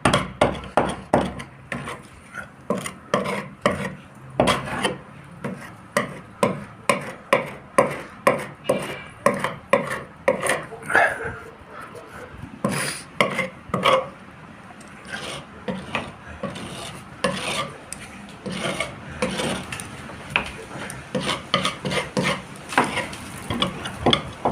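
Hand rubbing strokes on a fibreglass boat hull, about two back-and-forth strokes a second, with a rasping, scraping sound. The strokes ease off for a few seconds past the middle, then pick up again.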